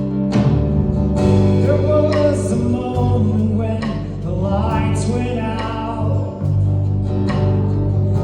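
Live worship music: a man singing over strummed guitar, with held low notes underneath.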